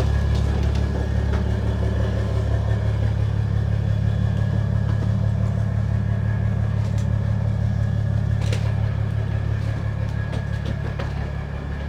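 A motor vehicle engine running steadily at idle: a loud, even low drone with a thin steady whine above it.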